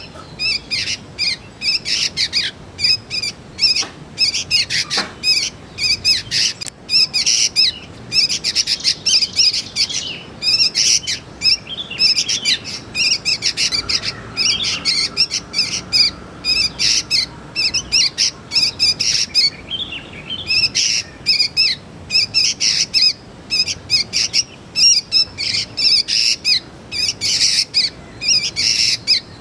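Young sooty-headed bulbuls calling: a rapid, nearly unbroken stream of short, high chirps, several a second.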